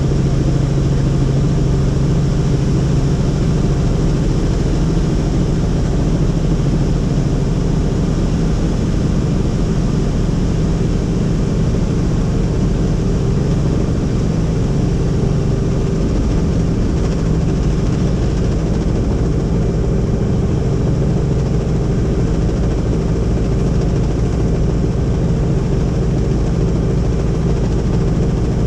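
Helicopter in flight: a steady, loud drone of engine and rotor that holds without change.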